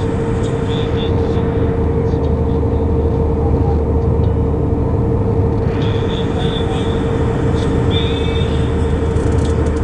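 Airliner engine and airflow noise: a steady, loud rumble with a constant hum over it.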